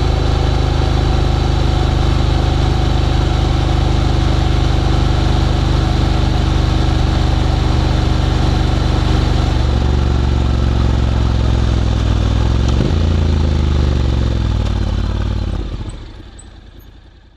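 Honda X-ADV 750 parallel-twin engine idling steadily through an SC-Project titanium slip-on exhaust, its note shifting slightly about ten seconds in with a brief blip near thirteen seconds. The sound dies away over the last two seconds.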